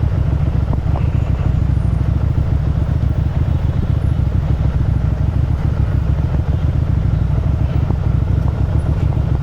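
Motorcycle engine and exhaust running steadily while riding at an even throttle, a dense low note with no revving up or down.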